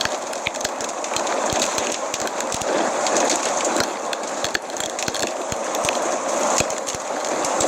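Wood fire crackling, with many sharp irregular pops over a steady hiss.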